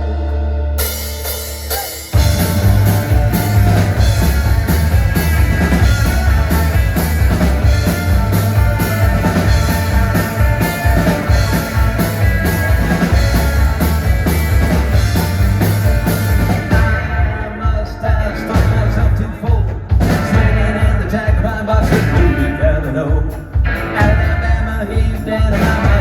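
Rock band playing live in a club: a low held note for about two seconds, then the full band with drum kit comes in on a steady driving beat.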